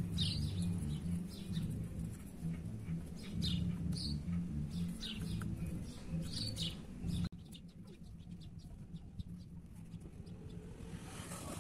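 Small birds giving several short, high chirps, over a low rumble that cuts off suddenly about seven seconds in.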